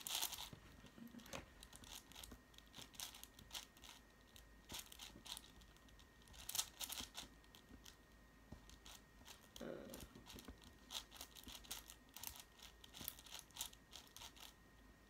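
6x6 Rubik's cube being turned by hand: quick, irregular plastic clicks and rasps as its layers are twisted, with a louder flurry about six and a half seconds in.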